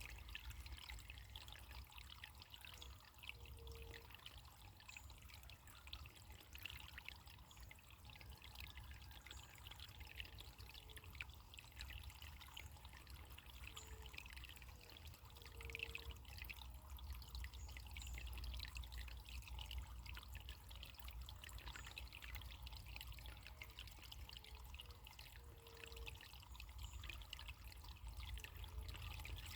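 Faint running water trickling and gurgling steadily, like a small stream.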